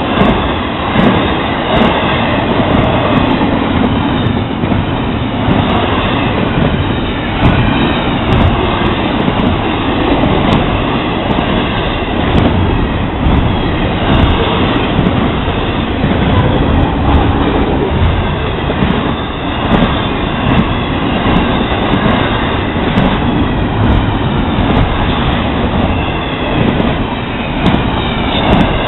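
Florida East Coast intermodal freight cars rolling past close by: a loud, steady rumble of steel wheels on rail with frequent irregular clacks.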